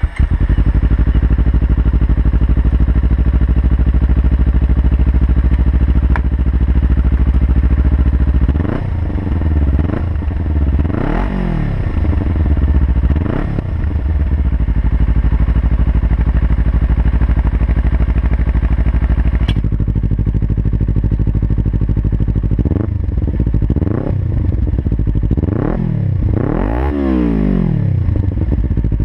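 Kawasaki Ninja 300 parallel-twin engine through its stock exhaust, idling steadily, then revved in several short throttle blips that rise and fall. It settles back to idle, and then gets a second group of blips near the end.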